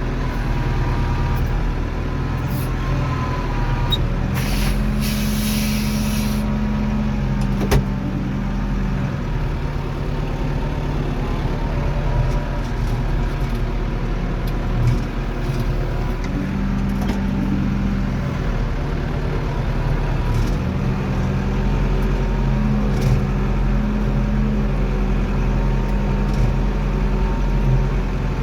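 International Harvester 784 tractor's diesel engine running as the loader works, its note stepping up and down with the load. A short hiss comes in about five seconds in.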